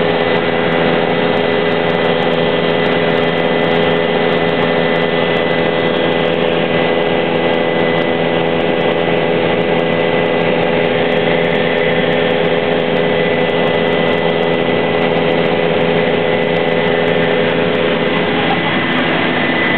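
Helicopter in flight heard from inside the cabin: a steady, loud rush of turbine and rotor noise with a constant high whine.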